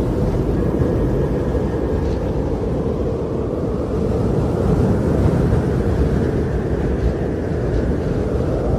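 Wind blowing in a steady, deep rush that swells slightly about halfway through.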